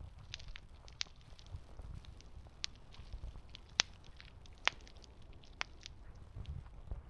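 Wood fire crackling, with sharp separate pops every second or so over a low steady rumble.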